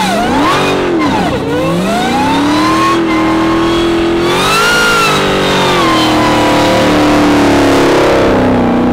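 Dodge Challenger SRT Demon 170's supercharged 6.2-litre HEMI V8 revving hard. Its pitch dips and jumps twice in the first second and a half, then climbs and holds under throttle. It rises once more about five seconds in and then slowly falls away.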